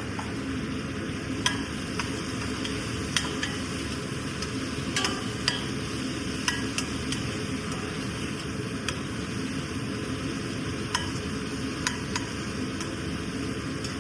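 Food sizzling in a pan while being stirred with a metal utensil, which clicks and scrapes against the pan irregularly, about a dozen times.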